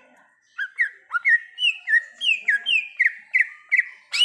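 A cucak ijo (green leafbird) singing a quick run of loud, clear whistled notes, each a short sweep, about three a second, starting about half a second in. A sharp click comes near the end.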